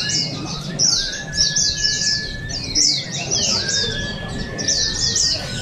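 Several white-eyes (pleci) singing in competition at once: dense, rapid streams of high chirps, each note falling quickly in pitch, with a long steady whistle held twice for more than a second.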